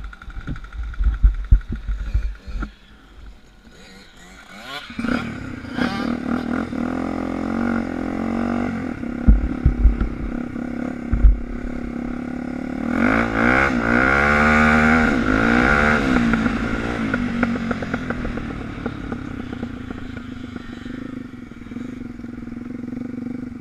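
Suzuki DR350 single-cylinder four-stroke dirt bike engine pulling away and revving, with pitch rising and falling as it gains speed, hardest around two-thirds of the way through, then running more steadily. Before it picks up, there are low thumps and clatter.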